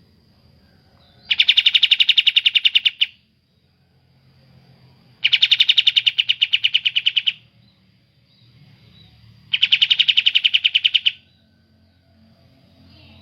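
Kapas tembak songbird singing three rapid, machine-gun-like trills of evenly repeated high notes, about ten a second, each about two seconds long with short pauses between.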